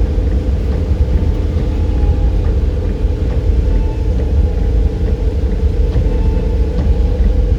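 Steady low rumble of a car driving, road and engine noise heard from inside the cabin, with a faint steady hum above it.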